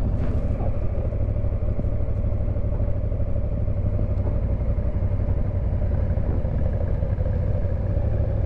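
Honda Africa Twin CRF1000L's parallel-twin engine running steadily while riding, with wind and road noise.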